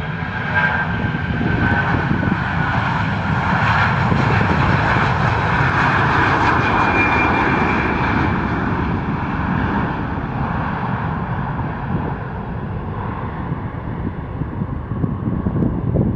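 Airliner jet engines passing close by. The noise builds to its loudest about four to eight seconds in and then slowly fades, with a faint whine that drifts down in pitch.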